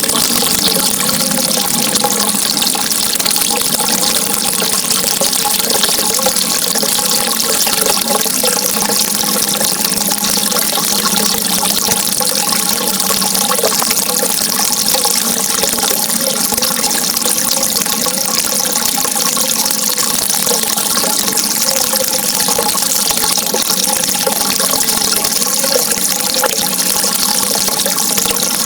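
Running water, a steady unbroken rush with a faint burbling texture.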